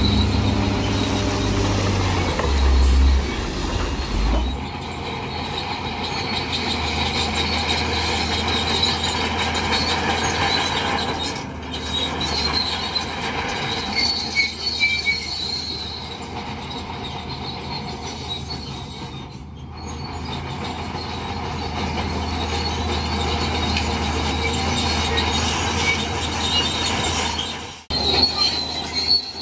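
Crawler bulldozer at work: the diesel engine running under load while the steel tracks and undercarriage squeal and grind, a high metallic screech like train wheels. The sound breaks off abruptly a few times.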